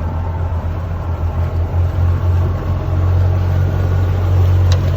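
Boat engine running steadily: a deep, even drone that grows slightly louder toward the end and stops abruptly.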